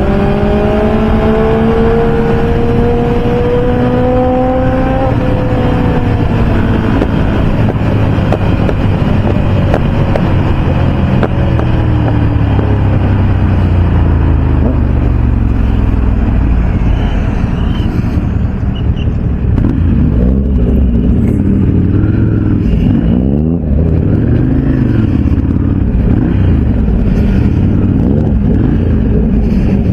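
Motorcycle engine running at highway speed with heavy wind rush, its pitch climbing through the first few seconds as the bike accelerates, then holding steady. Later come a few shorter rising and falling engine notes.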